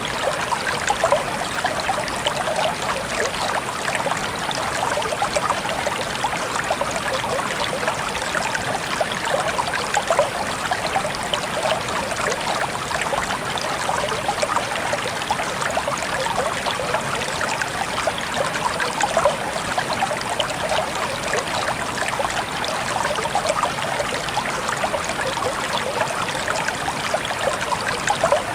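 Water trickling and splashing steadily, made up of many small drops and splashes close together.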